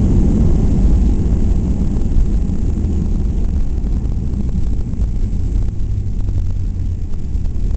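Cabin noise of a Boeing 737-800 rolling on the ground after landing: a steady low rumble from its CFM56-7B engines and the airframe, easing slightly about halfway through.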